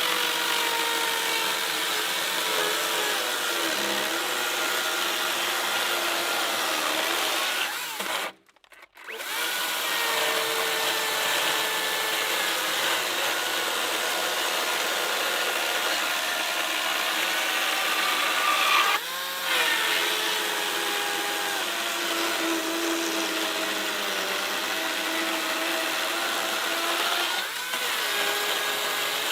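Makita electric chainsaw running and cutting through a pine log, its motor whine dipping and wavering in pitch as the chain bites into the wood. The motor stops for about a second roughly a third of the way in, and there are brief breaks twice more later on.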